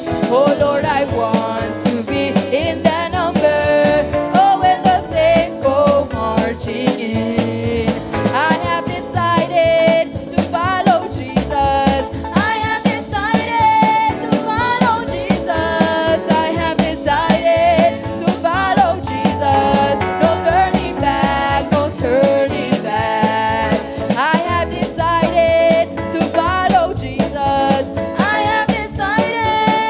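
Live upbeat gospel worship music: a church band playing with a steady beat while voices sing the melody.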